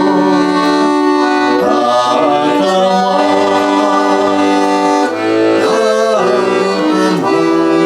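Accordion playing sustained chords, the notes changing every second or two: an instrumental passage between the sung lines of a slow folk-style song.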